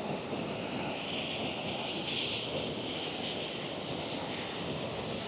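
Jägala Waterfall: a steady rush of falling water.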